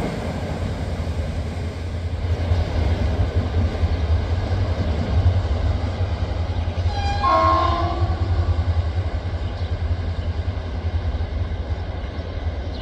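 Passenger train's locomotive running with a steady low rumble, and one short horn blast about seven seconds in.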